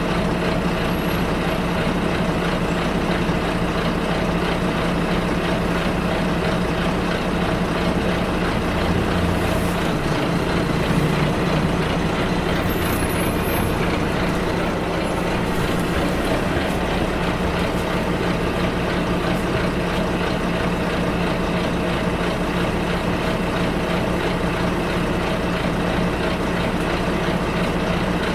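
Bus engine running with steady road noise, heard from inside the bus. The engine note shifts briefly about ten seconds in.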